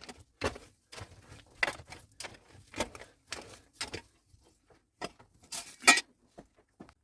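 Irregular series of sharp knocks and clatters, about a dozen of them, with fainter scraping in between; the loudest strike comes near the end.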